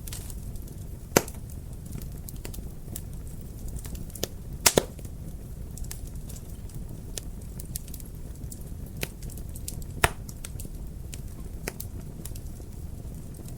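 Wood fire crackling in a fireplace: a steady low rumble of burning with frequent small clicks, and louder sharp pops about a second in, twice in quick succession near the middle, and once more about ten seconds in.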